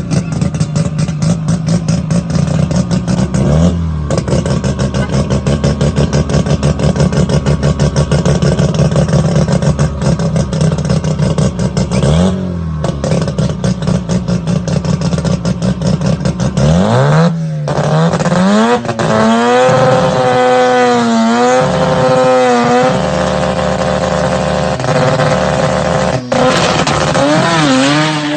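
Rotary engine idling with a choppy, rapid pulsing 'brap', briefly blipped twice. About two-thirds of the way through it is revved up and down several times, held at higher revs, then revved once more near the end.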